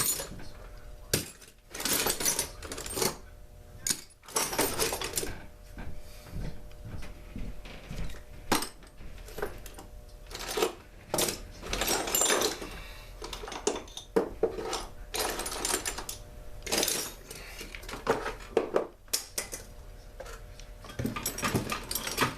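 Small metal parts and tools clattering and clinking irregularly as they are handled and rummaged through on a workbench, over a faint steady hum.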